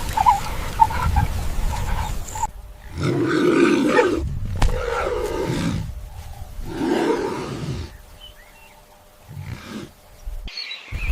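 A big cat roaring and growling: three deep calls in a row starting a couple of seconds in, after a low rumbling noise.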